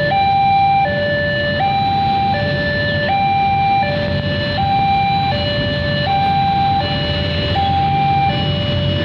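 Two-tone electronic warning signal, a high and a low tone swapping evenly about every three-quarters of a second, over a low engine rumble from the railway.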